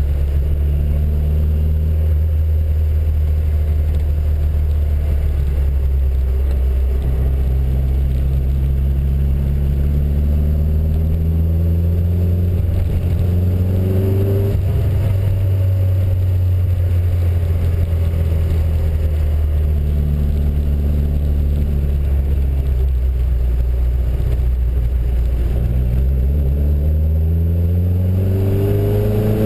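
Small Reliant car's four-cylinder engine and road noise heard from inside the cabin. The engine note climbs as the car accelerates, drops back at gear changes about 7 and 14 seconds in, and climbs again near the end.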